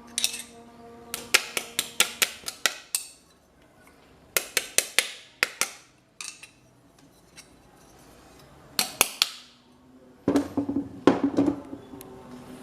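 Hammer tapping on metal in quick runs of several strikes, each with a short ring, with pauses between the runs. A denser, louder clatter comes near the end.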